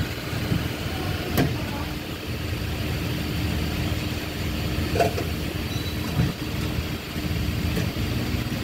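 Fiat Fiorino petrol engine idling steadily with the hood open. A sharp click comes about a second and a half in, and a short knock near the middle.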